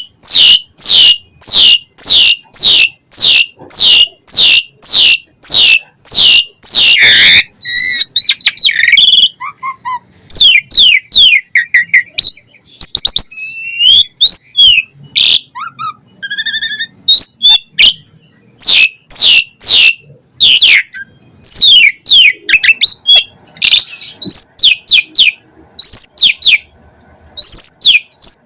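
Asian pied starling singing loudly: a fast series of repeated down-slurred whistles about two a second, breaking about seven seconds in into a varied jumble of mixed notes and chatter, then returning to repeated falling whistles.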